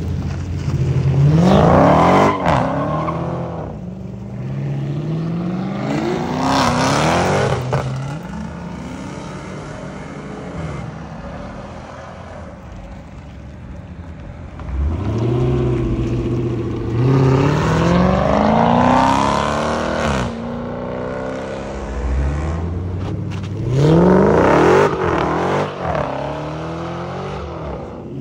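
Mopar car engine accelerating hard about four times, its pitch climbing steeply with each run and falling back to a lower rumble in between. The run in the middle is the longest and climbs in several steps.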